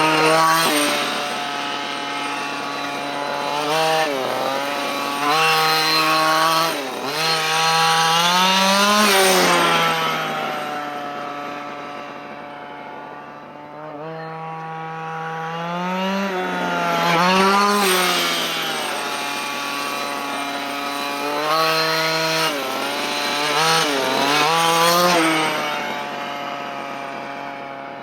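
Dynamite CY23cc two-stroke gasoline engine of a 1/5-scale Losi Desert Buggy XL, idling and revved in a series of throttle blips, its pitch rising and falling back again and again, during its break-in run.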